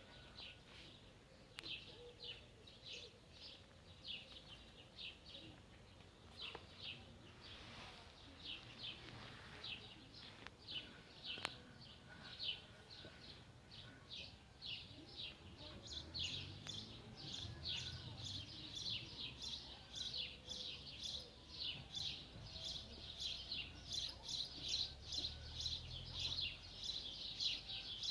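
Small birds chirping: short, high chirps repeated a few times a second. They grow busier and louder from about halfway through.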